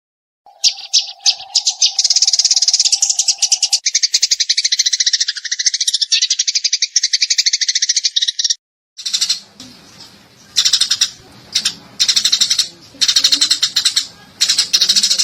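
Eurasian tree sparrow chirping in fast, dense trilled runs, with a steady low tone under the first few seconds. After a brief break just past the middle, the chirps come in short, separate bursts over a low background hum.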